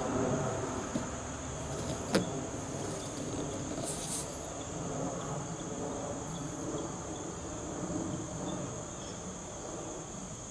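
Steady high-pitched insect drone over a low background rumble, with a single sharp knock about two seconds in.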